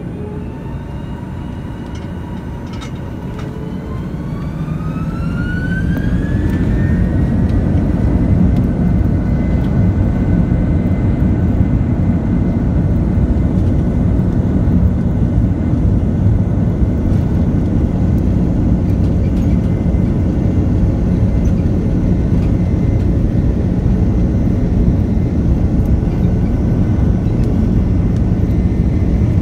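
Airbus A330 jet engines spooling up to takeoff thrust, heard from inside the cabin: a whine rising in pitch from about four seconds in as the sound grows louder, then a steady high tone over a loud, even rumble of the engines at full power.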